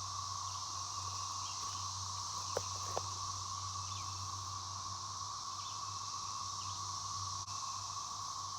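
Chorus of many cicadas calling in the woods, a steady unbroken whirring drone with no pauses. A low steady hum runs underneath, and two faint ticks come about two and a half to three seconds in.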